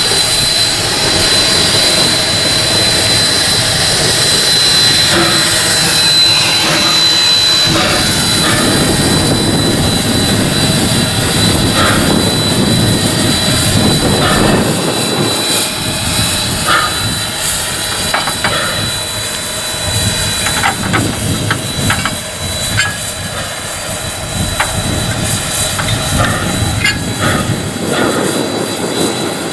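Steam locomotive Ww 644 running, heard from the cab: a loud, steady roar and hiss of steam, with a thin high whistle-like tone through most of it. Sharp knocks and clatter come in from about halfway on.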